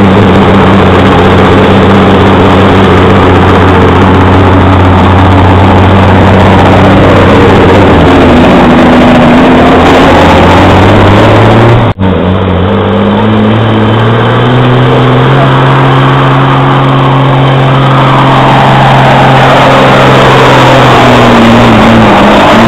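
Semi-truck diesel engine running hard under load pulling the sled, very loud and overloading the recording. It breaks off abruptly about halfway through, then the engine pitch climbs and holds before easing off near the end.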